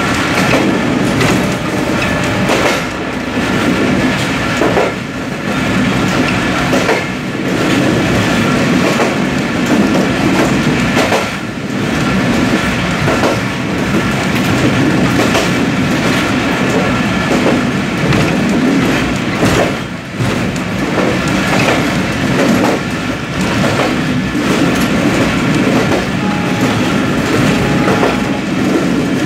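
Intercity passenger train running at speed, heard from its last coach: a continuous rumble of steel wheels on the rails with a clack at each rail joint, coming at uneven intervals of a second or two.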